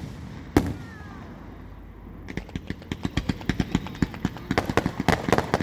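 Aerial fireworks going off: a single loud bang about half a second in, then from about two seconds in a rapid run of sharp cracks and pops, several a second, getting denser toward the end.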